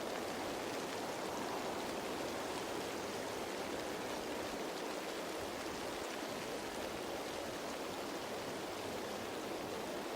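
Steady rain falling on leaves: an even, unbroken hiss of drops.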